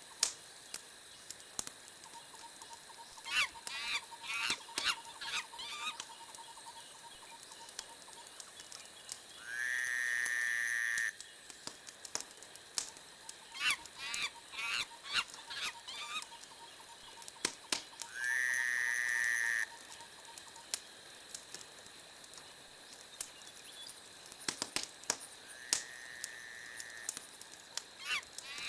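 Wood fire crackling with frequent sharp pops. Three times, a cluster of short honking calls sounds, and twice a steady whistle-like tone holds for about a second and a half.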